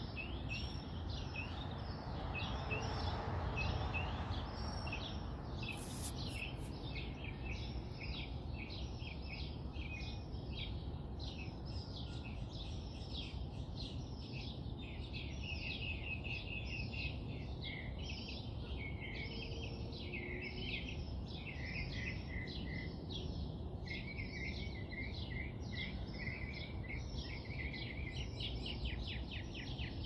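Songbirds chirping and singing in rapid, overlapping phrases without a break, over a steady low background rumble, with a brief click about six seconds in.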